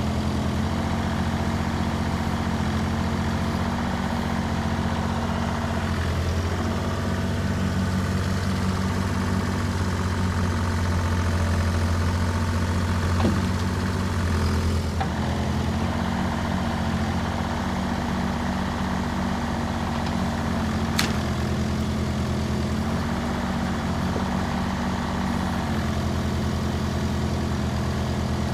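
Bobcat E32 mini excavator's diesel engine running steadily, its low note shifting a little now and then as it works. Two brief sharp knocks, one about halfway through and one later.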